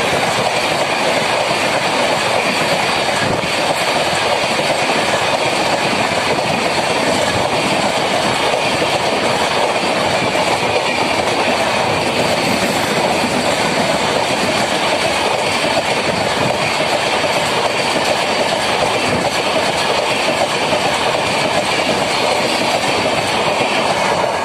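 LHB parcel vans passing close by at full speed: a loud, steady rolling noise of steel wheels on rail.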